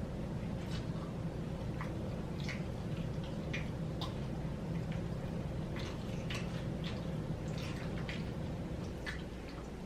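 Close-miked chewing and wet mouth sounds from eating fried chicken wings: irregular small smacks and clicks, over a steady low hum.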